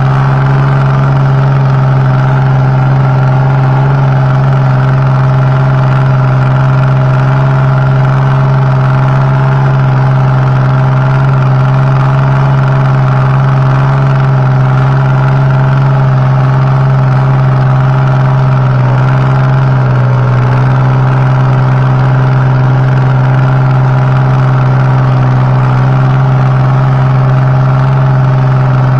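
Kubota tractor's diesel engine running at a steady, even speed through a new stainless-steel exhaust pipe, loud and unchanging.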